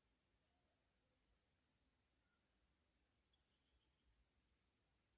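Steady, high continuous trilling of insects, a constant chorus with no breaks.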